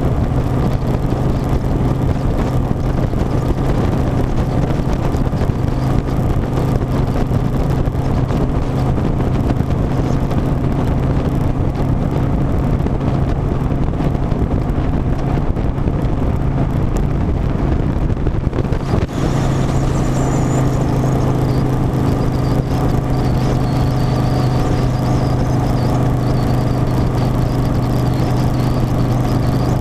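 Harley-Davidson Softail Standard's V-twin engine running at a steady pitch under dense road noise while riding. A faint high whine joins about two-thirds of the way through.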